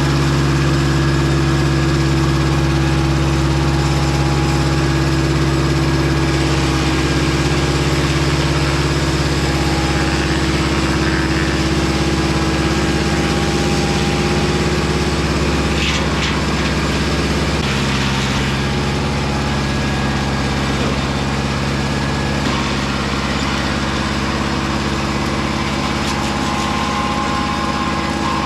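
Mobile Dimension circular-blade sawmill's engine running steadily, with a slight shift in pitch about two-thirds of the way through.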